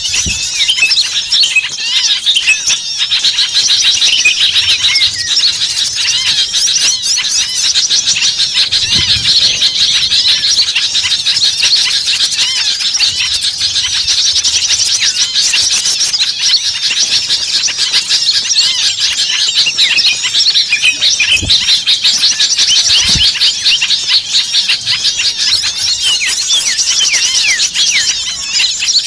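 A dense, continuous chorus of many small songbirds chirping and twittering rapidly over one another, a noisy, excited mix of calls of the kind used as a lure recording to draw small birds in.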